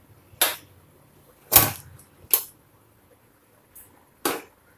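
Stainless steel pressure cooker lid being turned and lifted off the cooker: four short metallic clicks and scrapes, the loudest about a second and a half in.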